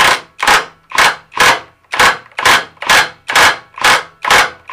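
Repeated blows on a metal part, about two a second, even and steady.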